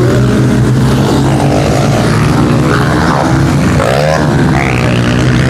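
Pit bike engines of the 150 class running on the track, with a rev that rises and falls about three to four seconds in over a steady low drone.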